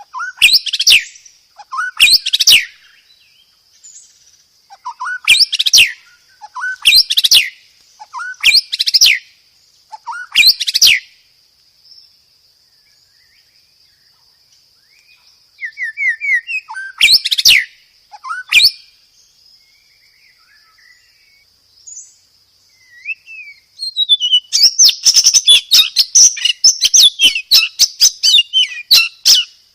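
Songbird song from a bird-song training (masteran) recording: loud, sharp chirp phrases, each a short low upswept note followed by a sharp high burst, repeated about every second and a half, with a faint steady high whistle-like tone beneath. After a lull of a few seconds, the song turns into a fast, continuous chattering run near the end.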